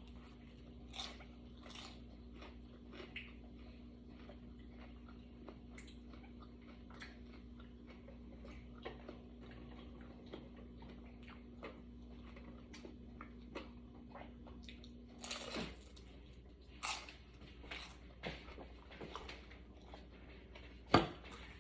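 A person eating: faint chewing and small crunching bites throughout, with a few louder clicks in the last few seconds. Under it runs a faint steady hum that stops about three quarters of the way through.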